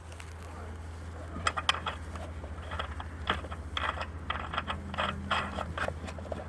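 Irregular metallic clicks and clinks of hand tools being worked, starting about a second and a half in, over a steady low hum.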